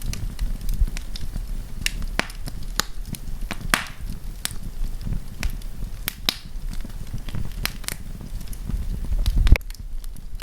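Wood campfire crackling, with sharp pops and snaps at irregular intervals over a low rumble. The rumble cuts off suddenly near the end, leaving the crackles alone.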